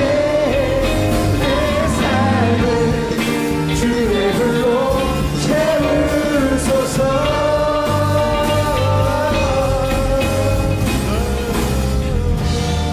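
Live contemporary worship band playing a rock-style song with singing: a vocal melody over drums, bass and guitars.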